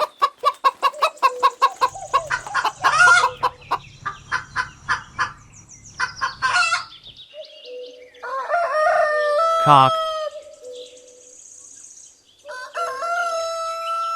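A hen clucking in a fast run of short clucks for about seven seconds, then a rooster crowing in the second half, ending in a long held crow.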